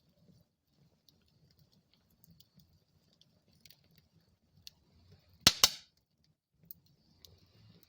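Wood fire crackling in a fireplace: scattered small ticks and pops over a soft low rumble, with two sharp, loud pops in quick succession about five and a half seconds in.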